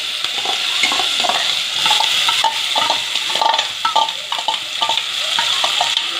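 Chopped onions, green chillies, garlic and curry leaves sizzling in hot oil in an aluminium pressure cooker, with a steady hiss, while a metal spoon scrapes and clinks against the pot.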